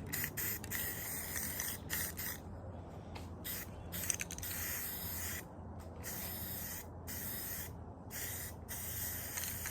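Aerosol spray-paint can hissing in a series of short bursts of uneven length, about ten of them, as paint is sprayed onto the mini bike's metal parts.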